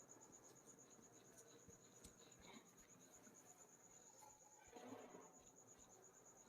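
Near silence filled by a faint, steady cricket trill, a high, rapidly pulsing chirp, with a couple of soft rustles about halfway through and again near the end.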